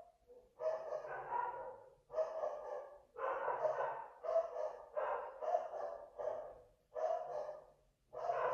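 Dogs barking over and over, about once a second.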